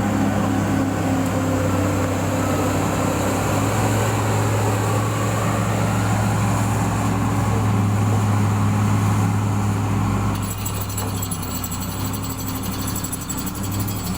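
Heavy-equipment diesel engine running steadily with a low hum. About ten seconds in it gets slightly quieter and a thin high-pitched whine joins it.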